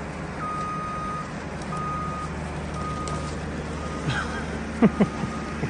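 An electronic beep, one steady tone, sounds on and off about once a second over a steady low hum. Near the end come a few short, sharp falling sounds, the loudest about four to five seconds in.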